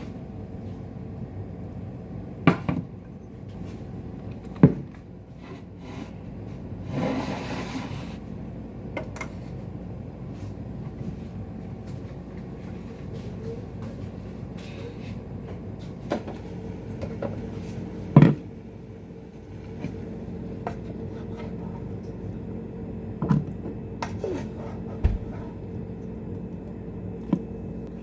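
Scattered knocks and clicks of objects being handled, the loudest about eighteen seconds in, with a short rustling hiss about seven seconds in, over a steady low hum.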